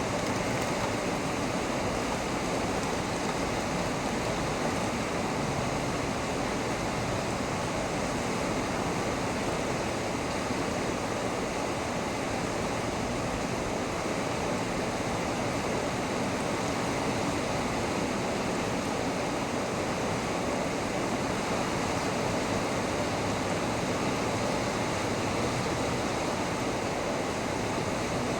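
Heavy thunderstorm rain pouring steadily, an even hiss of rainfall with no change in strength.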